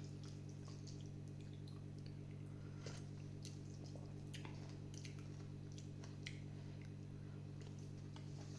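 Low, steady hum from the stove as a pot of noodle soup cooks, with a few faint scattered ticks and drips.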